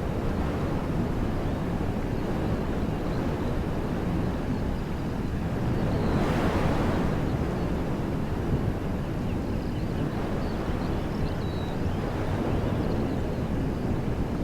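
Wind blowing through woodland trees: a steady rushing that swells into a stronger gust about six seconds in.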